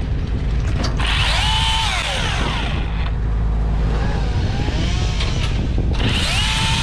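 Chainsaw revved up twice, about a second in and again near the end, each time rising in pitch, holding and falling back, over a steady low rumble.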